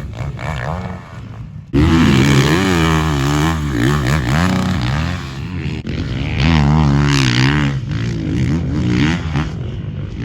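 Motocross bikes riding a track, their engines revving up and down with the throttle and gear changes. The sound jumps abruptly louder a little under two seconds in.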